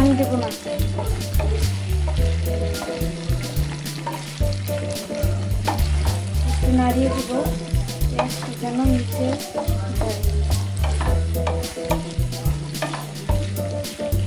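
Fish and chopped onions sizzling as they fry in oil in a nonstick pan, with a wooden spatula scraping and stirring through them in short, repeated strokes. An irregular low rumble runs underneath.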